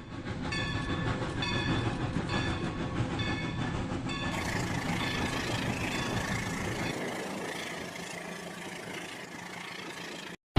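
Battery toy train's built-in train sound effects playing: a ringing bell-like tone repeats about three times every two seconds over running-train noise, and the sound changes about four seconds in.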